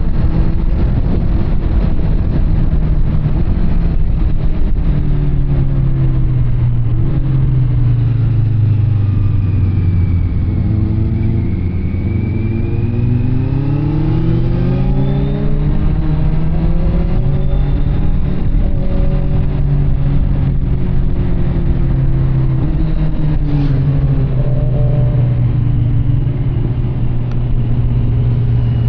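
Kawasaki Z900 SE inline-four running through an SC Project CR-T carbon exhaust while riding. The engine note drops, climbs again, drops once more, then settles into a steady cruise.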